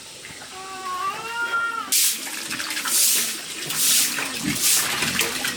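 Short animal calls that rise and fall in pitch, then water sloshing in louder bursts about once a second from about two seconds in.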